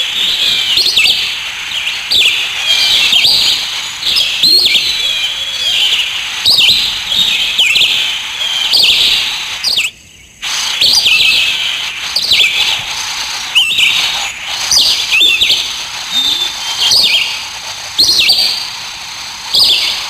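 Small birds chirping and chattering continuously, many quick high notes overlapping, with a short break about halfway through.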